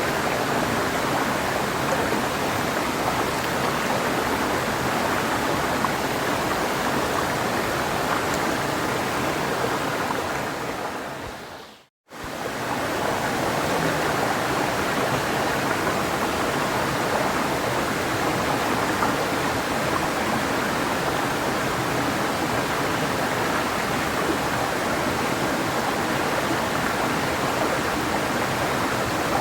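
Clear mountain river rushing steadily over rocks. About twelve seconds in it fades quickly to silence for an instant and fades straight back in.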